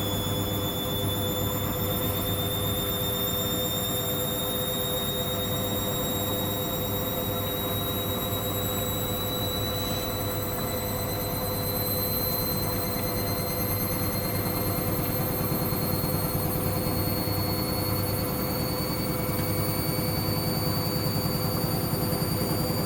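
Hoover washing machine spinning on a 90 °C cotton programme, the drum motor's high whine rising slowly in pitch as the drum speeds up, over a steady low hum.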